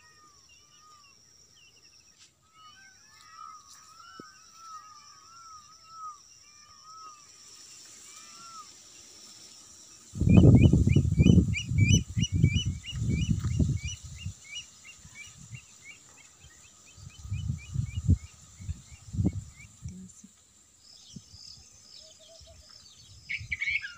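Birds calling outdoors: a repeated arching chirp through the first half, then a quick run of higher chirps. From about ten seconds in, loud low rumbling bursts on the microphone come and go, louder than the birds.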